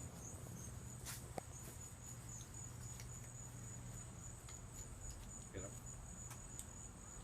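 Faint, steady high-pitched insect trill, like crickets chirping in rapid pulses, over a low steady hum.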